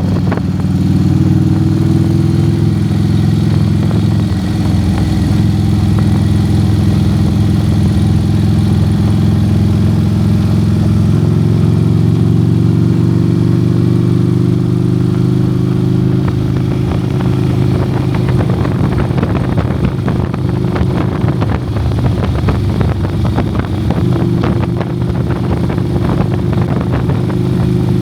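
Motorcycle engine running steadily on the road, its note rising a little about eleven seconds in and again near the end.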